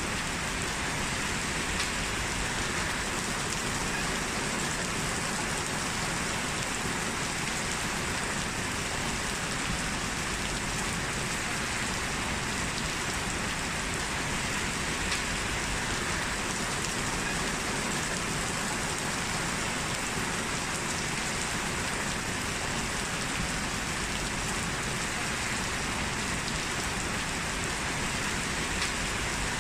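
Steady rain falling on a surface, an even hiss with faint individual drop ticks.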